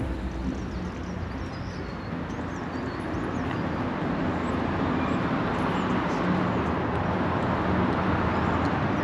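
Road vehicle passing close by, its noise growing steadily louder.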